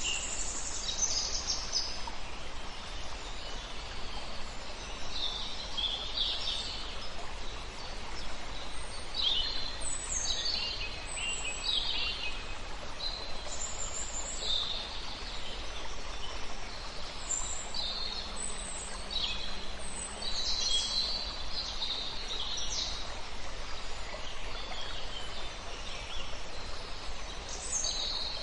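Several songbirds chirping and trilling in short, scattered phrases over the steady rush of a river.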